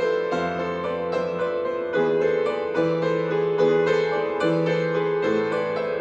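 Piano music: quick repeated notes in the upper register over held bass notes that change about every second or two.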